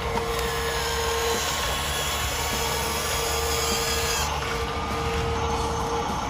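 Small electric motors and gearboxes of radio-controlled construction models whining steadily. A high whine cuts off about four seconds in, while a steadier tone comes and goes in stretches of a second or so.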